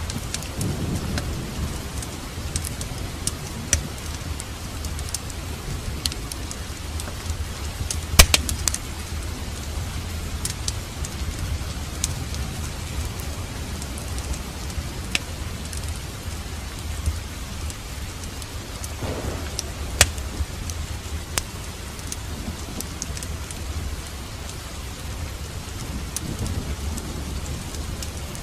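Steady rain with a crackling wood fire in a fireplace: scattered sharp pops and cracks over a low, even rumble, the loudest pops just after 8 seconds and at about 20 seconds.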